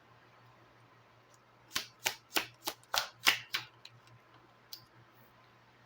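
Tarot deck being handled and shuffled by hand: a quick run of about seven sharp card snaps over roughly two seconds, starting a couple of seconds in.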